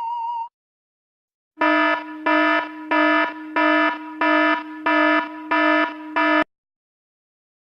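An electronic alarm sound effect: eight harsh, buzzy beeps at an even pace of about three every two seconds, then it cuts off. Before it, a wavering electronic tone from the previous effect stops about half a second in.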